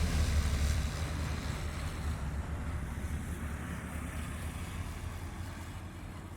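Rolls-Royce Dart turboprop engines of a YS-11 aircraft, a deep rumble that fades steadily as the aircraft moves away.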